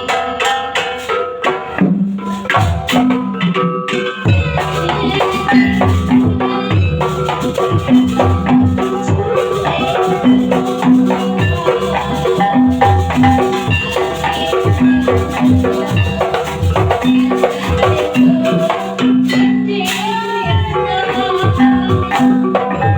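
Banyuwangi barong gamelan music: struck metallophones play a repeating melody over a steady pattern of drum strokes.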